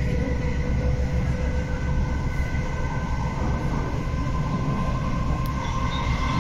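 Class 455 electric multiple unit running along the line, heard from inside the carriage: a steady rumble of wheels on track with faint steady whining tones over it.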